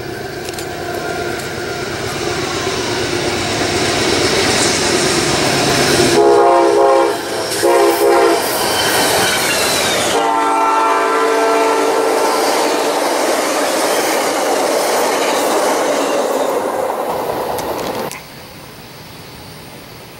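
Amtrak passenger train led by a GE P42DC locomotive approaching and passing at speed, its rumble building up. The horn sounds two short blasts about six seconds in, then a longer blast about ten seconds in as the locomotive goes by, with the cars rolling past afterwards. The sound cuts off abruptly near the end, leaving a quieter steady rumble.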